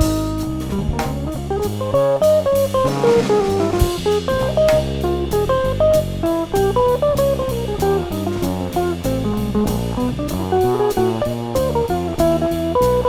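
Jazz guitar, bass and drum kit playing together. The guitar runs a line of quick notes over moving bass notes, and cymbal strokes keep time.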